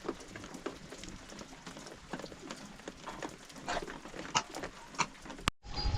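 Livestock moving about, with scattered short knocks and clicks and a few faint brief calls. The sound drops out abruptly for a moment near the end.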